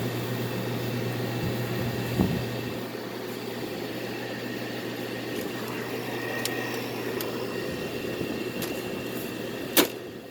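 Hampton Bay 5000 BTU window air conditioner running just after being switched back on: a steady compressor hum under the even rush of its fan. A knock sounds about two seconds in, and a sharp click near the end, after which it gets quieter.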